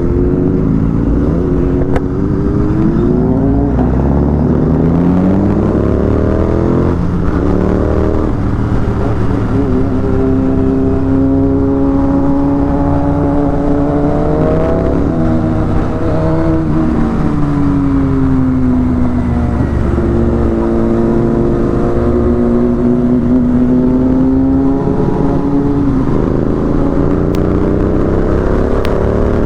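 Royal Enfield Continental GT 650's parallel-twin engine on the move, revving up in several climbs broken by gear changes, then holding a steady pitch. It eases off about sixteen seconds in and climbs again near the end, over a constant low rumble.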